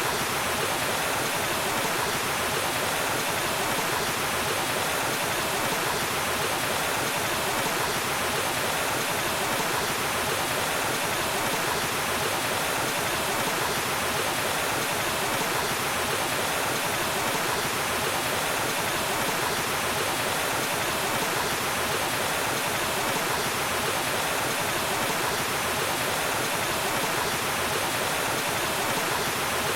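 Waterfall: a steady, even rush of falling and splashing water, unchanging throughout.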